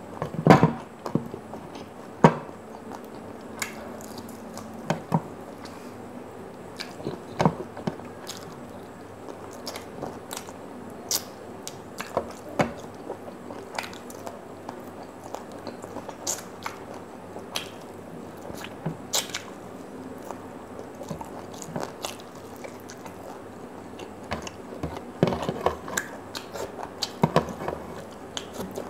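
A person chewing and biting fried chicken eaten by hand, with irregular sharp clicks and smacks and a denser flurry of them near the end.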